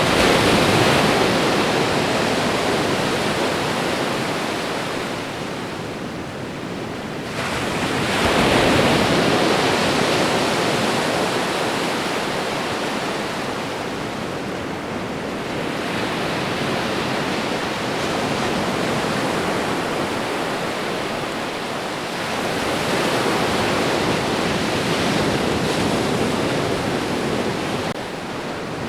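Ocean waves breaking and washing up the shore as a steady rushing surf that swells and eases in slow surges several seconds apart.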